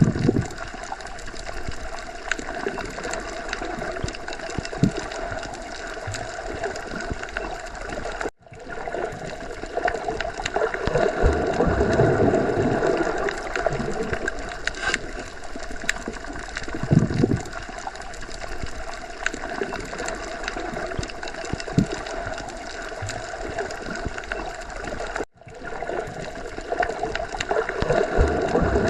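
Underwater ambience: steady gurgling water that swells louder twice, with faint scattered ticks. It cuts out for an instant twice, where the track loops.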